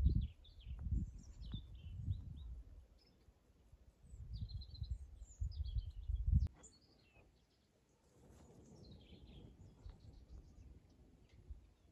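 Small birds chirping in short, high calls scattered throughout, over low rumbling noise on the microphone that stops about six and a half seconds in.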